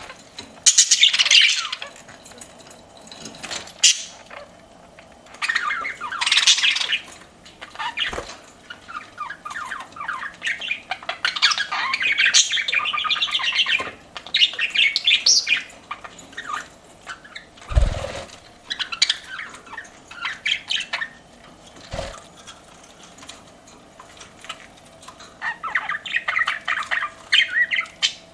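Pet budgerigars chirping and warbling in bursts of a second or two with short pauses between, the chatter rising and falling. A few short thumps break in, one about two-thirds of the way through.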